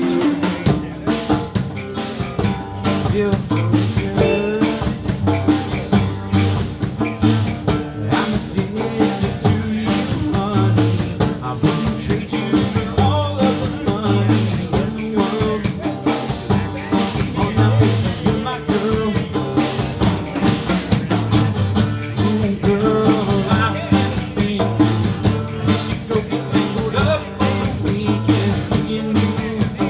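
Live blues band playing an instrumental passage, the drum kit keeping a steady beat under the other instruments.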